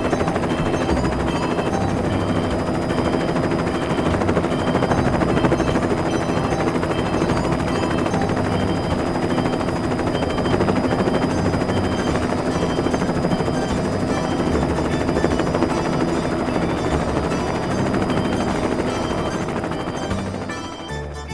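Helicopter rotor sound: a steady, rapid chop with a few steady tones running through it, fading out near the end.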